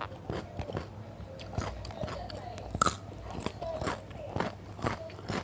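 Close-up chewing and crunching of raw vegetables with rice, irregular wet bites with one sharper crunch about three seconds in.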